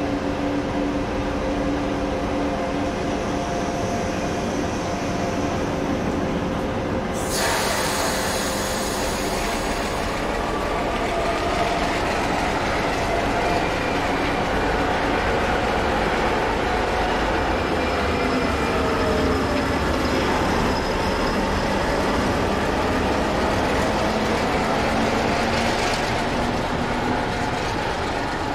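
A heavy DB diesel locomotive of the Soviet-built 'Ludmilla' family runs along the track with a steady engine drone, and a double-deck regional train pulls out alongside. About seven seconds in a loud hiss starts and dies away over the next few seconds. Around two-thirds of the way through, the drone bends down in pitch and back up as the locomotive passes.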